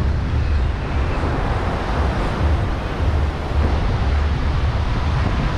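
Wind buffeting the microphone in a heavy, uneven low rumble over the steady wash of ocean surf.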